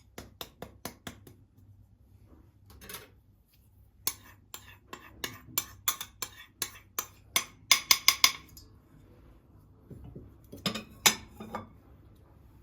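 Utensils and dishware clinking: a short run of sharp clinks at the start, then a longer run that speeds up and gets louder, and a few more near the end.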